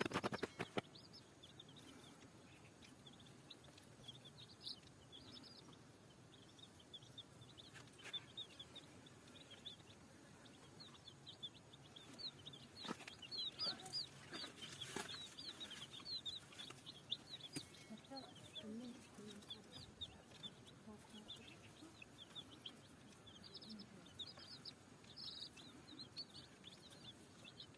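Many small chicks peeping: a busy chorus of short high cheeps, densest in the middle. A few sharp clicks sound in the first second.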